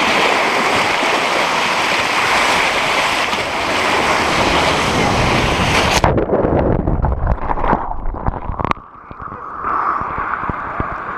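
Rushing waterfall water pouring over a GoPro in an open skeleton housing as it slides down a natural rock waterslide. About six seconds in the hiss cuts off abruptly as the camera goes under, leaving muffled low churning that fades quieter near the end.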